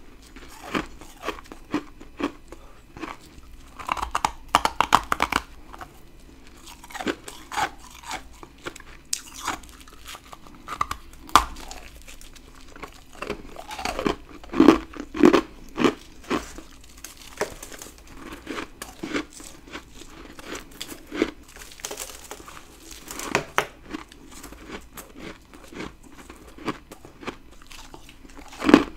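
Close-up bites and chewing of humidifier-grown freezer frost ice: a run of irregular crisp crunches and crackles, with dense clusters of bites.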